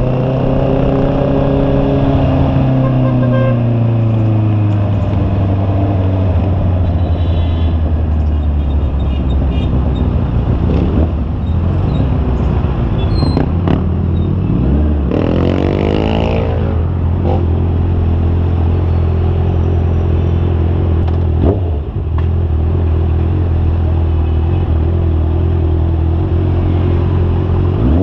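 Honda CB650R's inline-four engine pulling along the road under wind noise. Its pitch falls slowly over the first few seconds and then holds steady, with one quick rise and fall about halfway through and a short dip near the end.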